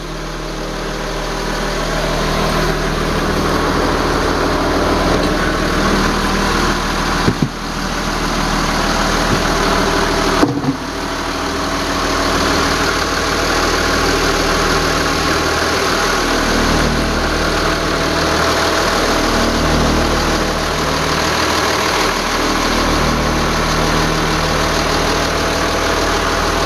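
Twin Yanmar marine diesel engines idling steadily, heard loud and close through the open engine hatch, running smoothly shortly after a cold start. Two brief knocks sound about seven and ten seconds in.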